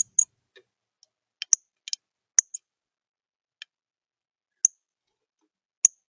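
A bird at a seed feeder making about a dozen short, sharp, high ticks at irregular intervals, a few in quick pairs.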